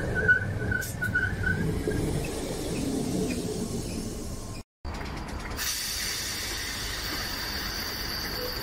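Merseyrail electric train running on the rails with a low rumble and a pulsing wheel squeal in the first two seconds. The sound cuts out briefly about halfway through, then steady rail noise with a thin high whine.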